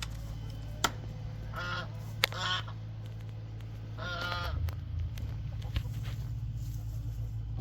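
Farmyard fowl calling twice, each call a short run of notes, the first about a second and a half in and the second about four seconds in. A couple of sharp clicks sound over a steady low hum.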